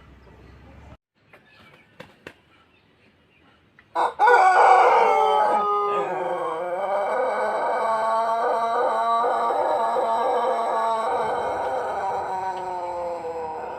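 Pelung rooster crowing: one very long crow that starts loudly about four seconds in and is held for nearly ten seconds on a slowly wavering pitch, fading near the end. A few faint clicks come before it.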